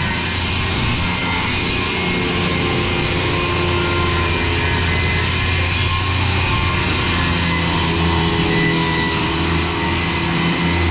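Corded Milwaukee 7-1/4-inch circular saw with a carbide blade running steadily at full speed while cutting through 3/4-inch-thick oak tongue-and-groove floorboards at a 3/4-inch blade depth.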